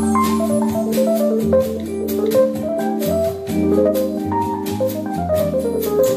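Instrumental jazz-style music played back through a JBL portable Bluetooth speaker: a stepping melody over held bass notes and regular drum hits.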